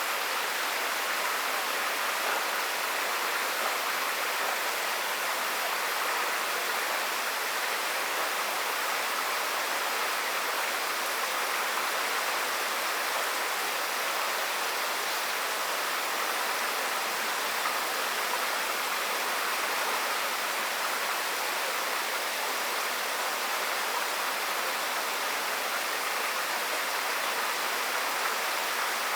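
Water rushing steadily along a park water channel, an even hiss with no changes.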